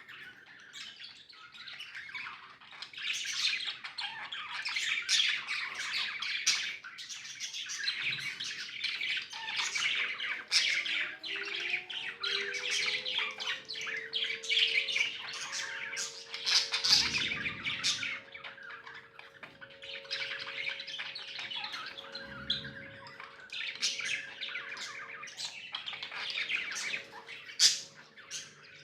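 Several pet budgies chirping and chattering nonstop in quick, high, scratchy notes. A fainter steady hum comes in about a third of the way through and holds.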